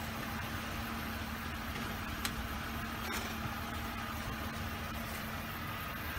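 Car engine idling steadily, under a steady hum that stops about five seconds in, with a faint click a little over two seconds in.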